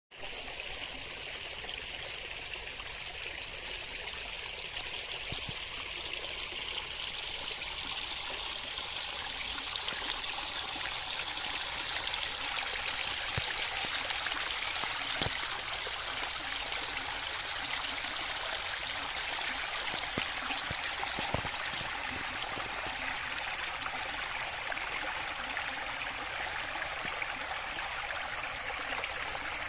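Steady rush of running water. Small groups of high chirps sound over it several times in the first eight seconds or so.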